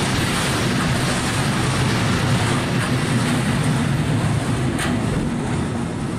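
Freight train rolling past: a steady, loud rumble of wheels on the rails, with one short sharp click about five seconds in.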